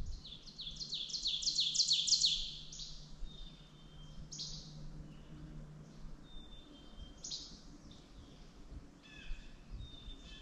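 A songbird singing a fast series of about nine high, downward-sliding notes that grows louder and lasts under three seconds. A few single sharp high calls follow at intervals of a few seconds.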